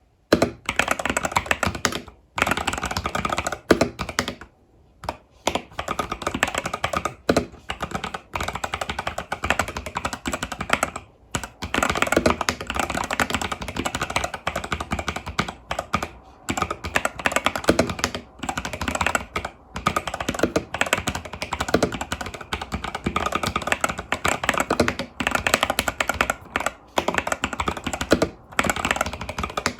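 Typing on an Epomaker TH80 Pro mechanical keyboard with Epomaker Budgerigar tactile switches and stock keycaps: a fast, continuous clatter of keystrokes, broken by short pauses, the longest about five seconds in.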